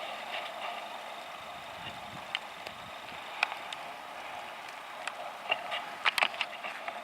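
Steady rain hiss with irregular sharp taps of drops landing close to the microphone, several in quick succession about six seconds in.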